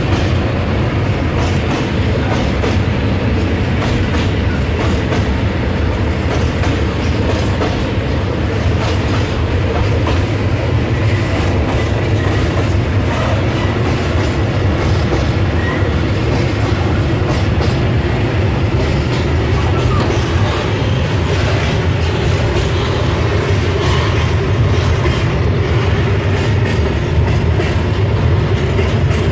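Freight train of high-sided open wagons rolling slowly past, steel wheels clicking over the rail joints in a steady run with a continuous low rumble.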